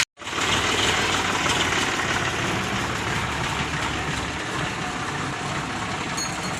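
Sonalika DI 745 tractor's diesel engine running steadily, a low rumble that cuts in just after a brief break at the start.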